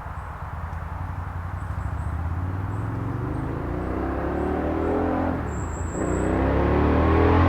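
Indian Scout Bobber's V-twin engine through Vance & Hines slash-cut slip-on exhausts, approaching and accelerating, rising in pitch and getting louder. Near the end the pitch and level dip briefly, then climb again to the loudest point.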